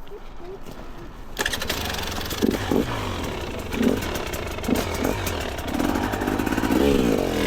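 Two-stroke dirt bike engine starting up about a second and a half in, then running with throttle blips and revving up near the end.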